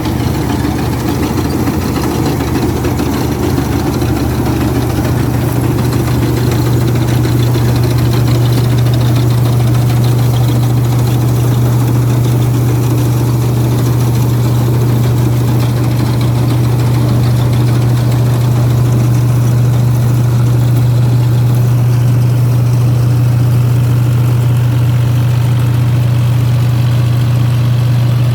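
Ford 3610 tractor's three-cylinder diesel engine running steadily with a deep, even hum, growing a little louder over the first several seconds.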